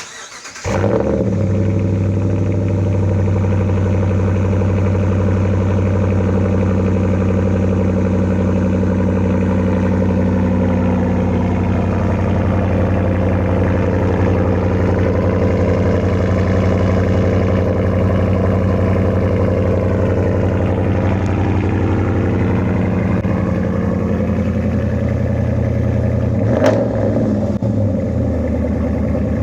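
2019 Ram 1500's 5.7 Hemi V8 cold-starting through a Carven RPT stainless exhaust with all resonators removed: a short crank, it catches within a second, then settles into a loud, steady cold idle. Near the end there is one brief sharp sound over the idle.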